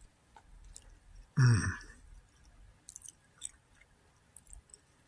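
A person chewing a bite of a deep-fried, cornmeal-battered stuffed poblano pepper, with small wet mouth clicks, and a short burst of voice about a second and a half in.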